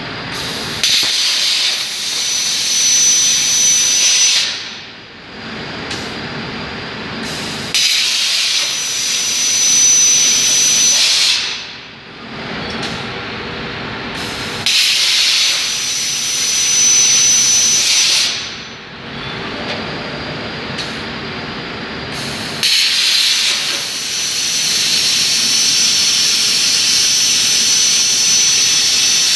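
CNC plasma cutter: the plasma torch's arc cuts with a loud, steady hiss and a thin high whine, four times, each cut about four seconds long and the last running on. Between cuts a quieter hiss of air carries on.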